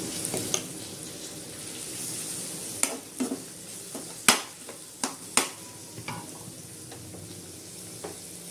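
Onions and tomatoes sizzling in hot oil in a pan while a spatula stirs them, with several sharp knocks and scrapes of the spatula against the pan in the middle, the loudest a little past halfway.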